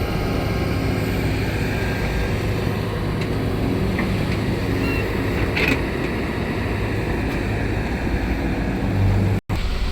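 Heavy diesel engine running steadily with a dense low drone, cutting out for an instant near the end.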